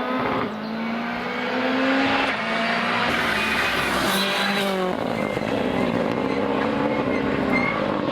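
Rally car engine at high revs, rising in pitch through each gear and dropping sharply at the shifts or lifts, about half a second in and again near five seconds.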